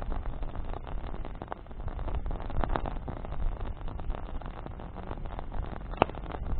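Wood campfire burning with a steady low rumble of flames and frequent small crackles from the branches, and one sharp, loud pop about six seconds in.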